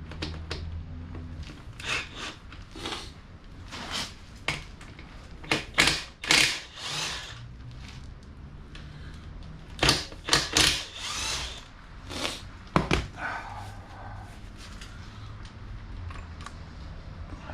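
Several short bursts of a power tool, with sharp metal clinks between them, as the carrier bearing cap bolts come off a differential.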